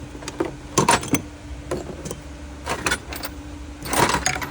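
Hand tools clattering and clinking in a metal toolbox as it is rummaged through: a few separate sharp clanks, then a longer rattle about four seconds in.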